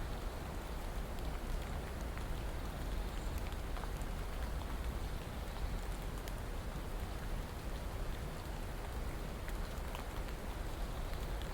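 Steady rainfall, an even hiss of rain with a low rumble beneath and scattered drops ticking on a surface.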